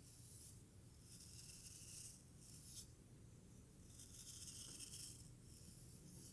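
Hair play: soft, swishing strokes drawn through hair, several in a row, each lasting a second or two with short pauses between.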